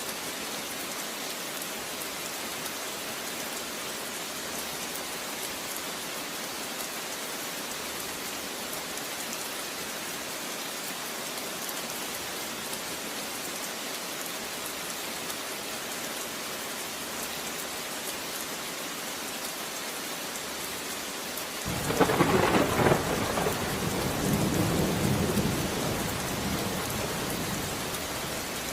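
Steady rain falling, a hiss of drops. About three-quarters of the way through a clap of thunder breaks in suddenly and rumbles for several seconds before fading back under the rain.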